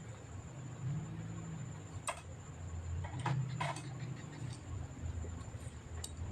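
A few light, sharp clicks and taps, of the kind made by handling small tools and plastic or metal computer parts during disassembly, over a low steady hum.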